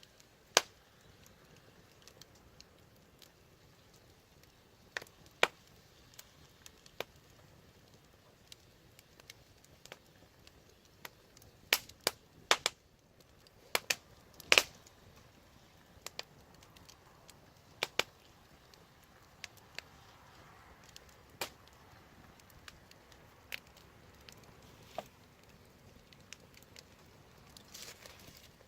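Wood fire crackling: sharp, irregular pops and snaps over a faint steady hiss, with a cluster of louder pops about halfway through.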